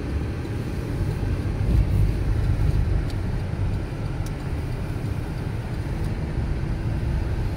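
Low, steady rumble of a car driving over a rough, ice-covered road, heard inside the cabin, with a couple of faint clicks.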